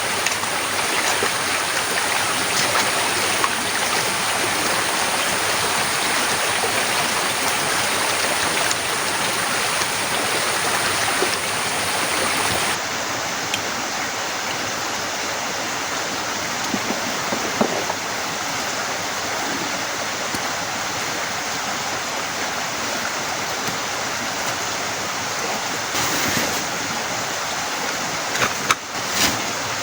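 Heavy rain falling steadily, a dense even hiss, with a few short sharp taps, mostly near the end.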